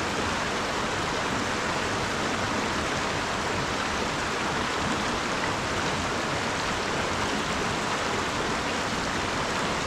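Mountain river rushing over rocks: a steady, even roar of moving water.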